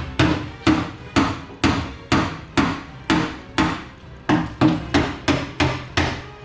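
Repeated hammer blows, about two a second, each with a short ring, typical of a hammer striking metal.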